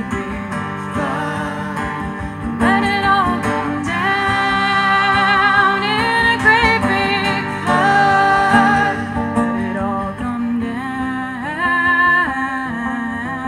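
Live folk band music: acoustic guitar under long held sung notes that waver with vibrato, changing pitch every second or two.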